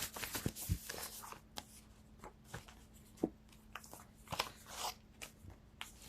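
Tarot cards being shuffled and handled: a run of irregular soft clicks, slaps and rustles, with a faint steady hum underneath.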